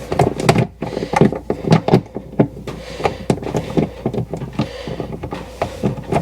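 Irregular clicking and scraping of a makeshift tool working a screw loose in a refrigerator, in quick uneven strokes.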